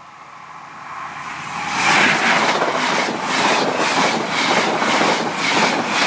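An InterCity 125 High Speed Train, led by a class 43 power car, passing through the station at speed without stopping. It rises quickly as it approaches, then goes on as a loud rush with a rhythmic clatter of the coaches' wheels, about three beats a second.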